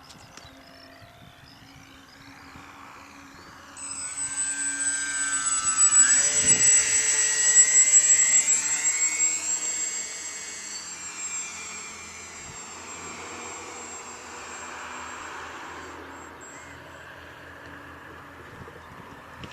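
Twin electric motors and propellers of a Multiplex Twinstar II RC flying boat whining. The whine rises sharply about four seconds in, is loudest with bending pitch as the model passes close, then fades to a steadier, quieter drone.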